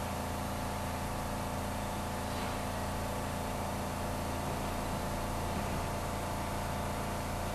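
Steady hum of a train standing at the platform: a low, unchanging drone made of several fixed tones, with a faint hiss.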